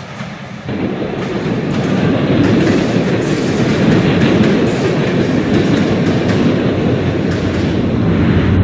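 A train running along its track with a steady rail clatter, stepping up in level about a second in.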